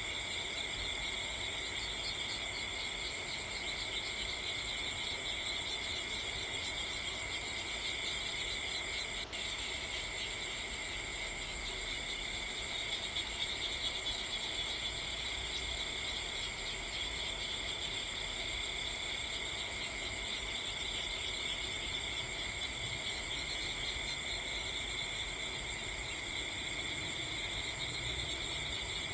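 A steady night chorus of crickets and other insects, a continuous high trilling. There is one brief click about nine seconds in.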